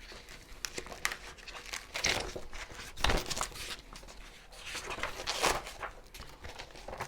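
Irregular rustling and crinkling handling sounds, a run of separate rustles, the loudest about two, three and five and a half seconds in.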